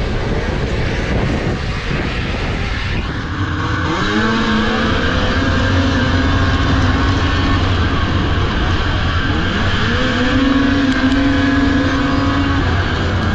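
Racing snowmobile engines running at high revs, their pitch climbing about four seconds in and again around ten seconds as the sleds accelerate.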